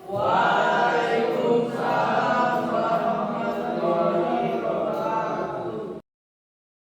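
A group of students chanting a prayer together in unison, many voices at once. It cuts off abruptly about six seconds in.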